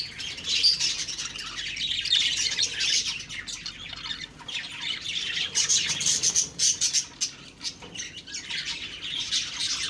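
Budgerigars (pet parakeets) chattering and warbling without a break, a dense mix of quick chirps and squawky calls.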